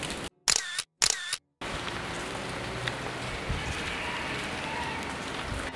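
Two camera-shutter clicks in quick succession near the start, set in dead silence, then steady rain.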